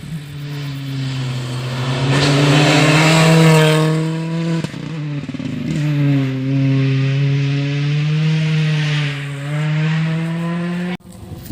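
Rally car engine running hard at high revs on a special stage, holding a fairly steady pitch with two brief dips, with tyre noise from the car. It cuts off abruptly near the end.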